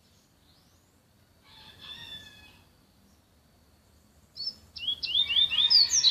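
Yellow-bellied seedeater (papa-capim) singing: a brief phrase of whistled notes about two seconds in, then from about four seconds a loud, fast run of sharp slurred notes that carries on past the end.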